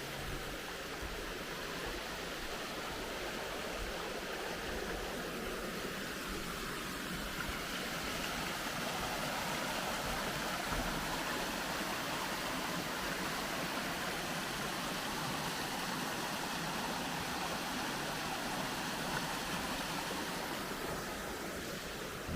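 Creek water running steadily, getting slightly louder in the middle and easing off toward the end.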